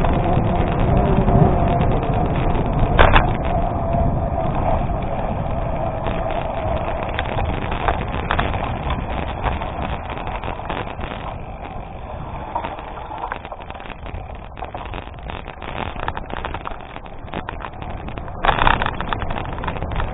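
Gravel bike rolling over a gravel road: tyres crunching and the bike rattling in many small clicks, with wind noise on the microphone. It eases off in the middle and grows rough and loud again near the end.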